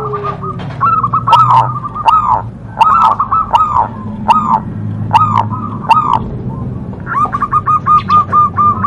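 Zebra dove (perkutut) cooing: a series of short arched coo notes repeated every half-second or so, breaking into a quick even run of notes near the end, with sharp high clicks alongside.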